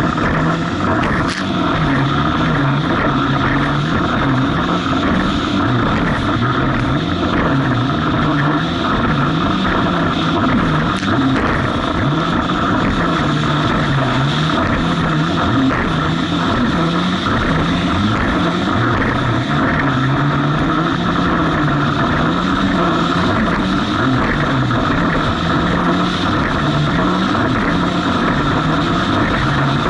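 Jet ski engine running hard in rough water. Its pitch rises and falls every second or so as the throttle and load change over the waves, over a steady rush of wind and water.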